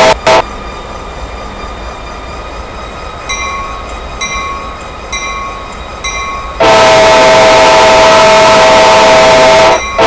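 Freight locomotive air horn blowing very loudly as a chord: a short blast at the start, then a long blast from about two-thirds of the way in, broken briefly near the end before sounding again. Between the blasts a bell rings about once a second.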